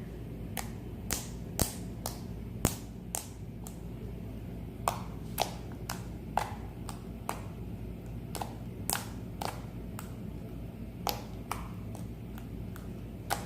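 Slime made from a peel-off gel face mask and laundry-detergent activator being poked with fingers, giving sharp little pops every half second or so at an uneven pace. These are the poking noises the maker is showing off. A faint steady hum lies underneath.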